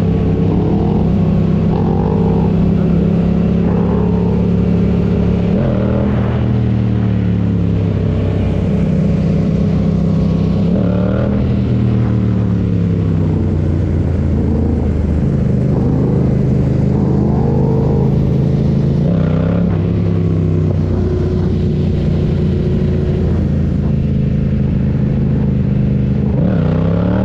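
Motorcycle engine running at a steady speed, its pitch dipping and climbing back up four times as the throttle is eased and reopened.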